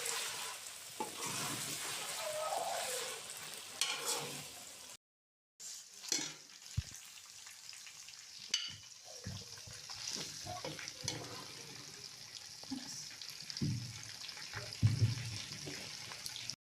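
Chicken sizzling as it fries in a karahi, with a spoon stirring and knocking against the pan. The sound cuts out for about half a second roughly five seconds in.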